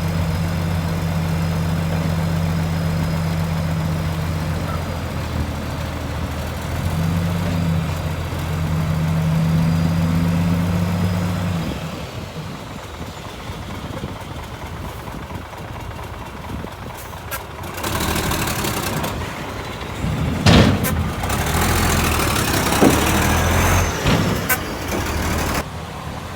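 Heavy diesel engine running steadily, its note rising for a few seconds before it drops away about halfway through. Later comes a loud rushing noise broken by several sharp knocks.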